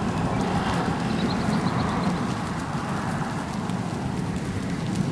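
Constant low, thunder-like roar from a distant hail shaft in the core of a supercell thunderstorm.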